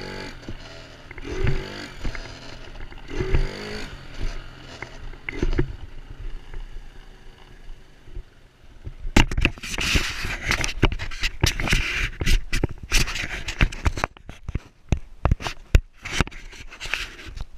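A 125cc dirt bike engine revving in short bursts about every two seconds. About nine seconds in, a rapid run of sharp knocks and scraping rattles takes over.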